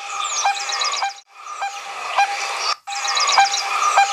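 Coppersmith barbet calling: a steady series of short, evenly spaced notes, a little under two a second, with other small birds chirping and trilling higher up. The sound breaks off briefly twice.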